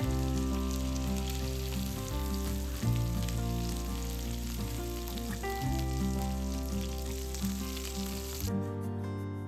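Food sizzling as it fries in a hot pan, under background music; the sizzling cuts off abruptly about eight and a half seconds in.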